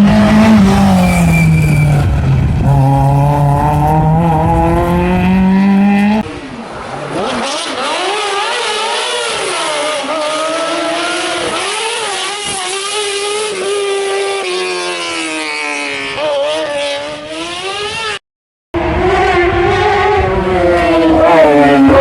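Rally cars driven flat out, their engines revving hard, the pitch climbing and dropping with throttle and gear changes. The sound changes abruptly about six seconds in and drops out for a moment near the end as one car's run gives way to another.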